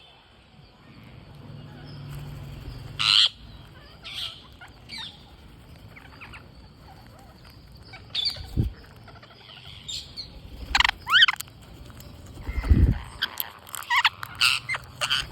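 Green parrots calling and squawking in short, scattered bursts, busier near the end, with a couple of low thumps between calls.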